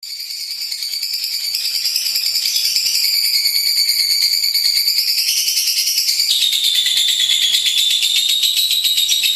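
Lovebird chattering in one long unbroken, very rapid high-pitched trill, the drawn-out song that lovebird keepers train for. It fades in at the start, and its pitch drops slightly about six seconds in.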